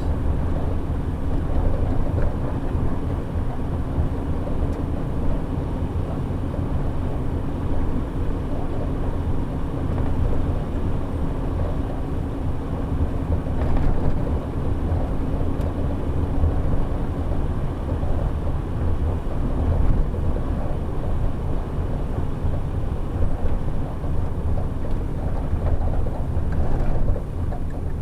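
Shuttle bus moving, heard from inside: a steady low rumble of engine and road noise, with a steady hum on top that fades away about two-thirds of the way through.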